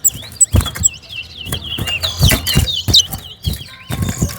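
Towa-towa finch singing in a song race: rapid, repeated warbling phrases. Several sharp knocks are mixed in.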